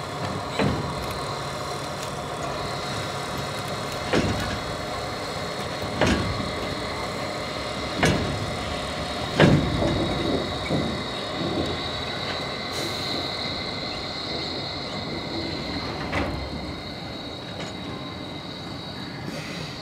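A train running on rails, a steady rumble with a faint high whine, broken by sharp knocks at uneven gaps of a second or more. The loudest knock comes about halfway through, and the sound eases off slightly near the end.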